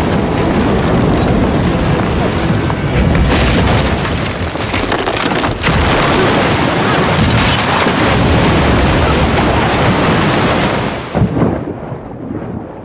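Loud storm-at-sea sound effects: rushing wind and crashing waves over a deep, booming rumble, dropping away sharply about eleven seconds in.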